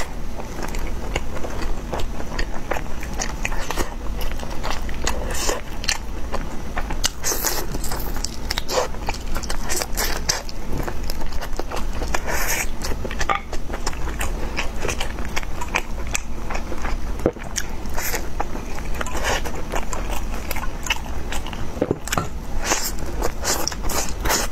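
Close-miked eating: repeated biting and chewing, with many small wet clicks and smacks, over a steady low hum.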